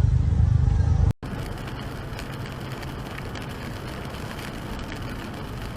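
Car driving noise from a dashcam: a loud low engine and road rumble that cuts off about a second in, then steadier, quieter road noise.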